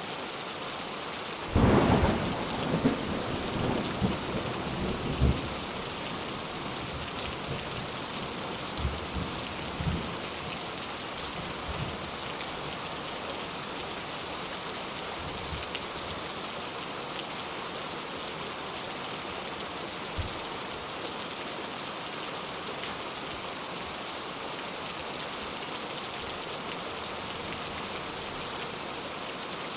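Steady rain hissing, with a sudden loud clap of thunder about a second and a half in that rumbles on for about four seconds, followed by a few fainter low rumbles.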